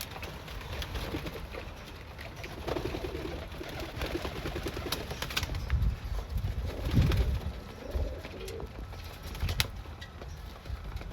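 Pigeons cooing, with low warbling coos about three seconds in and again near eight seconds, among scattered sharp taps.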